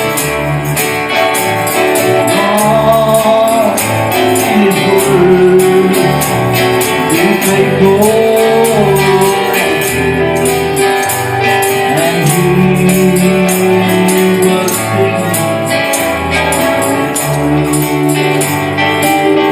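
Gospel music played by a church band: a quick, even jingle on the beat over a pulsing bass line and a held melody.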